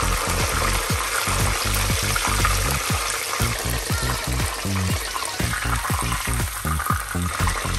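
Breaded milanesas frying in hot sunflower oil with garlic cloves in a pan: a steady crackling sizzle.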